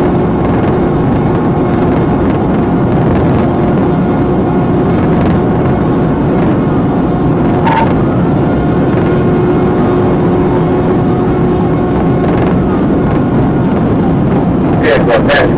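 Steady road and engine noise of a car driving at speed, with a cluster of short clicks near the end.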